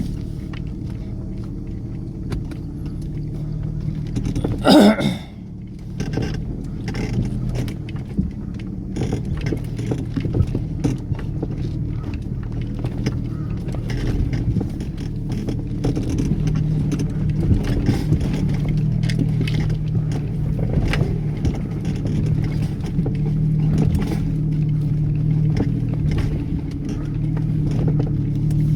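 A vehicle engine running steadily at low revs, with scattered knocks and rattles as it crawls over rough ground. There is a brief louder sound about five seconds in.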